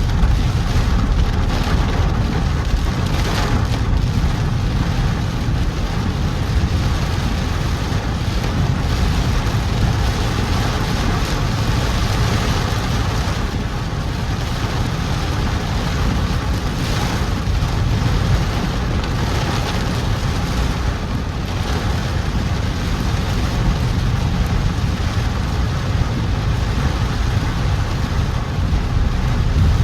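Heavy rain on a moving car, with a steady low rumble of engine and tyres on a wet road under an even hiss of rainfall.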